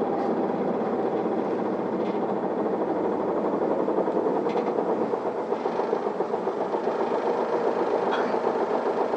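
Isuzu Erga city bus running, its diesel engine and road noise heard from inside the passenger cabin as a steady dense rumble that gets a little louder about four seconds in.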